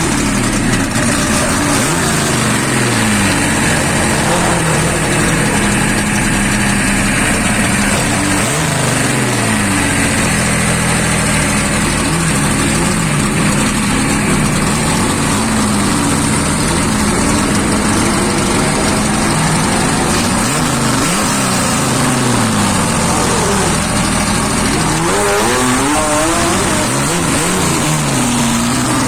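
Street drag-racing cars accelerating hard, the engine pitch climbing and dropping again and again as they shift up through the gears. Near the end more than one engine can be heard at once.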